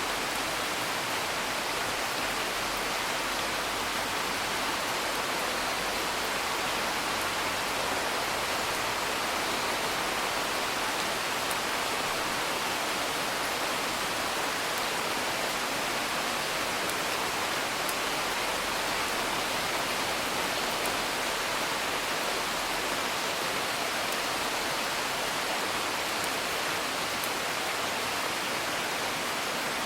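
Steady rain, with faint scattered crackles of a wood fire.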